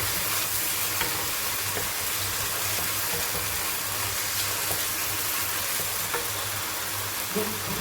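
Onion-and-spice masala base sizzling steadily in ghee in a wok, with a few light clicks from stirring, being fried until the oil separates from the masala.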